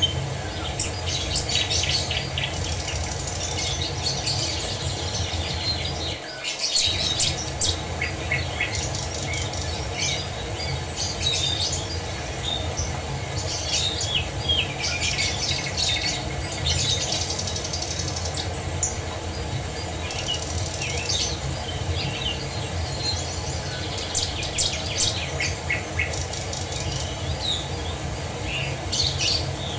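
Many songbirds chirping, trilling and calling over a steady rush of falling water. The whole sound dips out briefly about six seconds in.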